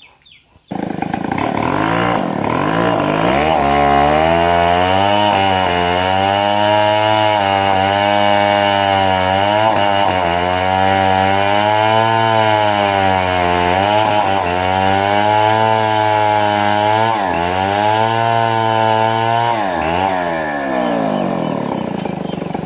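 Chainsaw running hard through a cut, its engine pitch sagging and recovering several times as the chain bites into the wood. It starts abruptly just under a second in.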